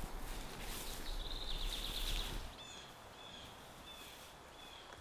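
Forest ambience with birds singing: a short trill about a second and a half in, then one bird repeating a short chirp at an even pace, about three every two seconds. A steady background noise with a low rumble underneath stops abruptly about two and a half seconds in.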